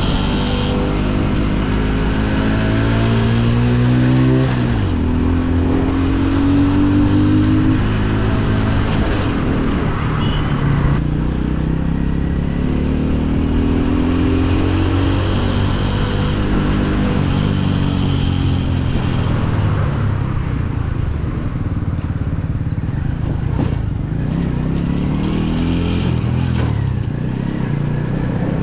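Motorcycle engine under way, its pitch climbing as it accelerates and dropping at each gear change, several times over, about four and a half seconds in most sharply.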